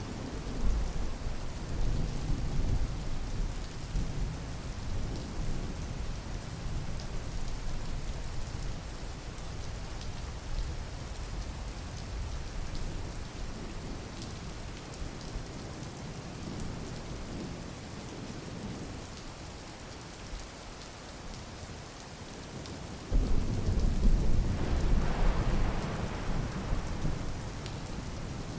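Steady rain falling, with low rolls of thunder: one rumble near the start and a louder one that begins abruptly about 23 seconds in and fades a few seconds later.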